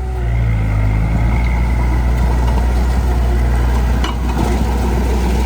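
Heavy diesel earthmoving machinery running steadily with a deep engine hum, with a brief knock about four seconds in.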